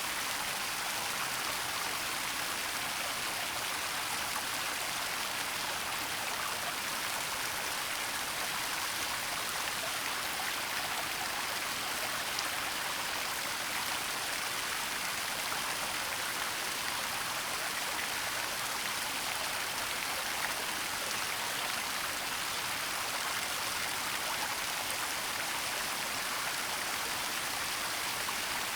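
Waterfall running steadily: an even, unbroken rush of falling and splashing water, mostly a bright hiss with little low rumble.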